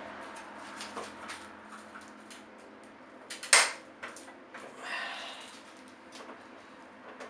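Metal wrench clinking and knocking against the rear sprocket nuts of a motorcycle wheel, with one sharp loud clank about three and a half seconds in and a short scrape a little later; the nuts are seized and not budging.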